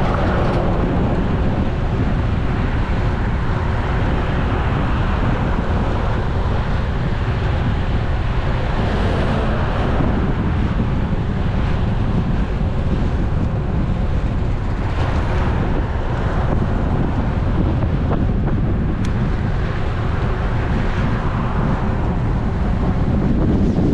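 Steady wind rushing over the GoPro Hero 11's microphone on a moving road bike, with road and tyre noise beneath it. The wind swells and eases a few times.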